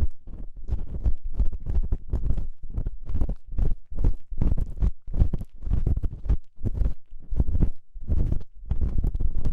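Ear-cleaning ASMR sounds: an ear-cleaning tool scraping and rubbing inside a microphone's ear, in quick irregular strokes several times a second.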